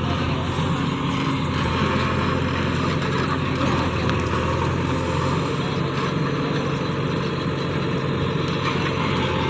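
JCB 3DX Plus backhoe loader's common-rail diesel engine running steadily at an even speed.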